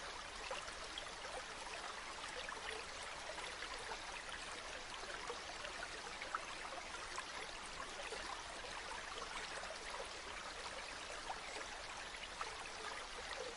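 Water from a small spring running and trickling steadily, with fine splashing droplets.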